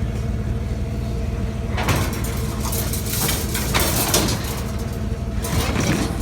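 Vehicle engine idling steadily. From about two seconds in, loud scraping and rattling as scrap items are shifted and loaded into the vehicle.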